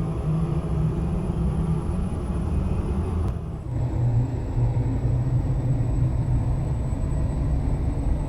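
Ashok Leyland truck's diesel engine running steadily under way with a low rumble. About three and a half seconds in, the sound dips briefly and the engine note settles to a lower pitch.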